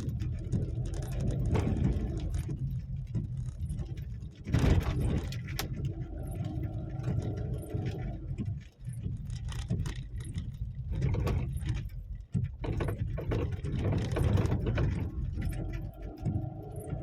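A motor vehicle's engine running, over a continuous low rumble, with a louder sudden burst about four and a half seconds in.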